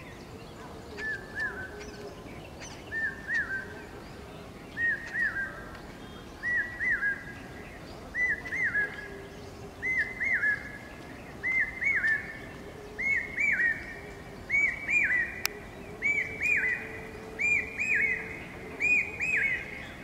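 A bird calling over and over: a short phrase of two or three arched, whistled notes about every second and a half to two seconds, growing louder as it goes on.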